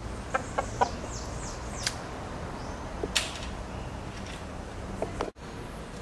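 Birds calling over steady outdoor background noise: three short calls in quick succession, then a few quick high chirps that fall in pitch, with scattered sharp clicks.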